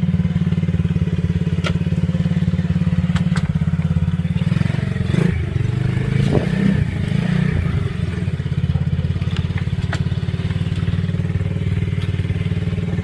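Coolster gas dirt bike engine running steadily at low revs, with the sound shifting and roughening for a few seconds around the middle and a couple of sharp clicks early on.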